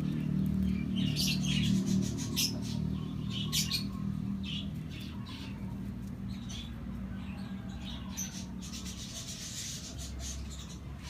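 Lovebirds chirping in short, scattered calls over a steady low hum.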